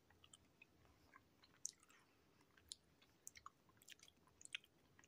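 Faint close-up chewing of a soft pickled quail egg: irregular small wet clicks and smacks of the mouth.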